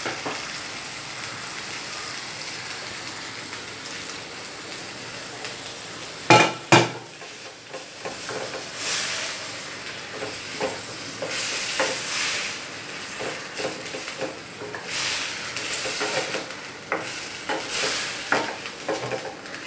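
Curd-marinated chicken sizzling in ghee in a stainless steel kadhai, with a steady hiss. A wooden spatula stirs and scrapes through it in repeated swishes with small clicks. Two loud sharp knocks come about six seconds in.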